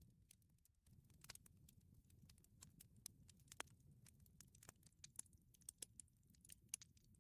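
Wood fire crackling faintly: irregular sharp pops and snaps, a few louder than the rest, over a low rumble.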